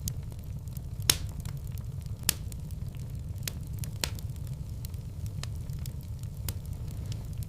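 Fireplace fire crackling, with a steady low rumble beneath and scattered sharp pops, the loudest about one and two seconds in.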